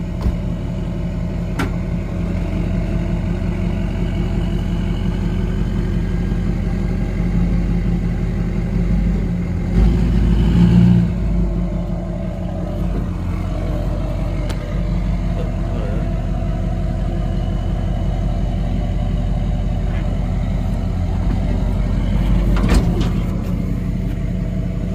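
Dually pickup's engine running steadily while the truck is worked under a fifth-wheel trailer to hitch it. The engine note rises briefly about ten seconds in, and there is a sharp metallic knock near the end.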